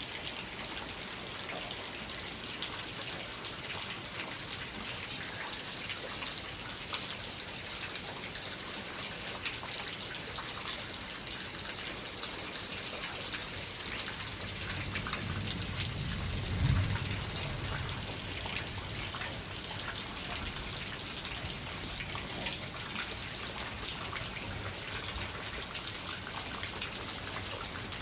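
Steady rain falling during a thunderstorm, a dense patter of small drop hits. A brief low rumble swells and fades a little past the middle.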